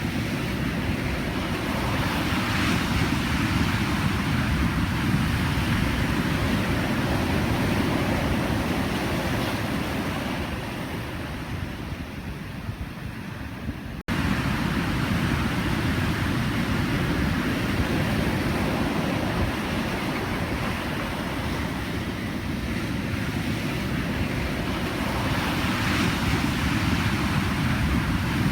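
Pacific Ocean surf: a continuous rush of waves breaking and washing in, swelling and easing. About halfway through it softens, then cuts out for an instant and comes straight back at full strength.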